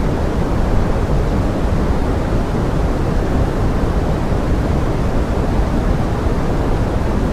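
Steady pink noise: an even, unchanging rushing hiss, heavier in the low end, used as a rain-like sleep sound.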